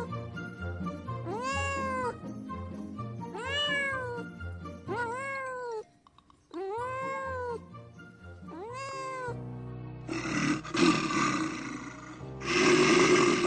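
A cat meowing six times, each meow drawn out and rising then falling in pitch, over background music. In the last few seconds the meows give way to a harsher, louder, rougher animal sound in two stretches.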